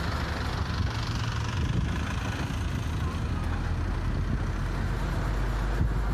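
Route bus running along a highway, heard from inside: a steady low engine drone with road noise.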